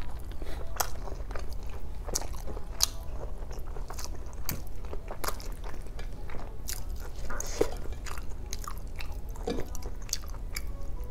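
Close-miked chewing of a mouthful of rice and boiled pork hock: wet, irregular mouth clicks and smacks, over a low steady hum.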